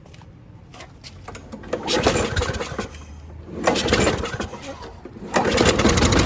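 Briggs & Stratton 190cc lawn mower engine being pull-started on a shot of carburetor spray, firing briefly three times, about two seconds in, about four seconds in, and again near the end, where it keeps running.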